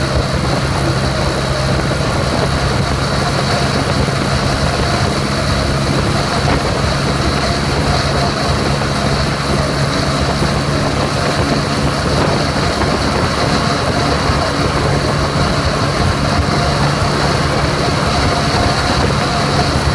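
Yamaha Majesty S scooter's 155 cc single-cylinder engine running at a steady pitch through an SP Tadao POWERBOX FULL stainless aftermarket exhaust, holding speed on a top-speed run, with a steady rush of wind and road noise.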